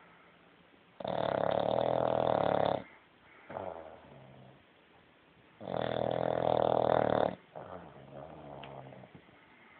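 A sleeping bulldog puppy snoring: two loud snores about four and a half seconds apart, each nearly two seconds long, with quieter breaths between them.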